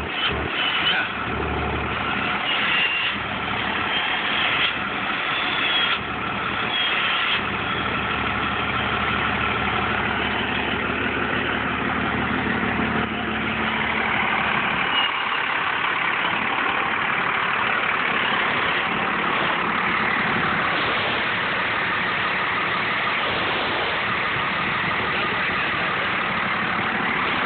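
Cummins diesel engine running, with the whistle of its Holset HE351VE variable-geometry turbocharger: thin high tones come and go over the engine in the first several seconds, then a steadier rushing sound holds to the end.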